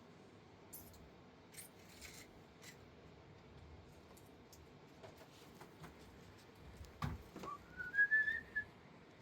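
A short whistled note, rising and falling slightly, about eight seconds in, just after a dull thump. Under it is a faint steady background hiss with scattered faint high chirps and clicks.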